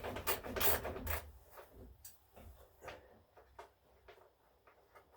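Hand tool working on an engine's fasteners: a quick run of rasping strokes, about three a second, that stops after about a second. Faint scattered clicks and taps of metal parts being handled follow.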